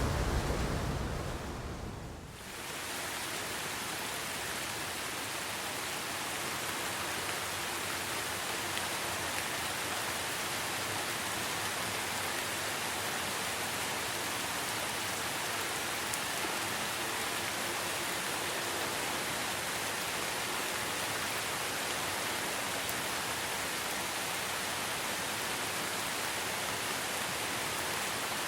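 Steady rain hiss, even and unbroken. A low rumble fades out over the first two seconds, there is a brief dip, and then the rain runs on evenly.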